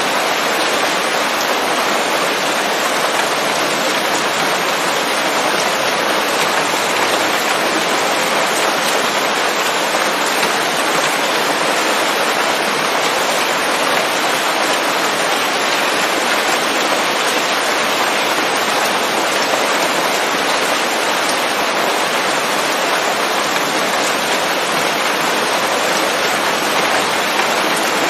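Steady, heavy rain falling on leaves, an even dense hiss of drops with no letup.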